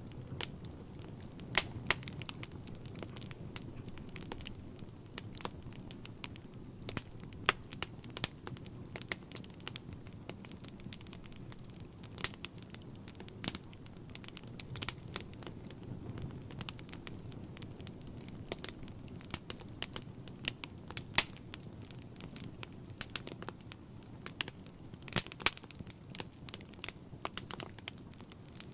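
Wood fire crackling in a fireplace: irregular sharp pops and snaps over a low, steady rumble of burning, with a quick flurry of louder pops near the end.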